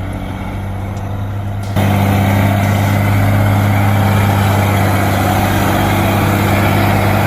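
Truck engine running at a steady pitch, becoming suddenly much louder and rougher about two seconds in, then cutting off abruptly at the end.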